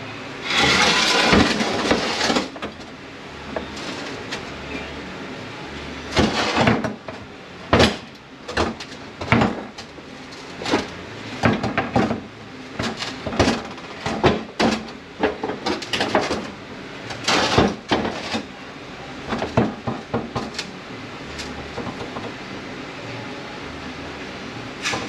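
Metal parts of an 8L90 automatic transmission clanking and scraping as they are worked loose and pulled out of the case by hand: a scraping slide at the start, then many separate knocks and clatters.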